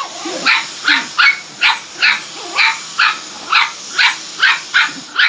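A dog barking repeatedly, about two sharp barks a second, at a running Dyson V10 cordless vacuum cleaner. The vacuum's steady high whine and hiss run under the barks and cut off suddenly at the end.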